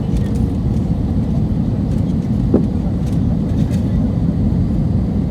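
Steady low rumble of airliner cabin noise inside an Airbus A320 on approach, from airflow and engines. A brief short knock sounds about two and a half seconds in.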